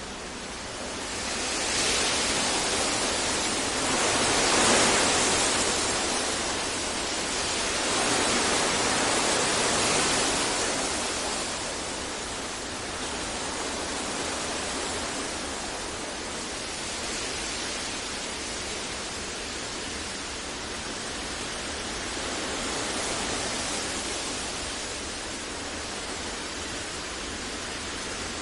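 Steady sleep-and-focus masking noise: an even hiss-like rush spread across low and high pitches. It swells up and down in loudness several times over the first ten seconds, then holds steadier.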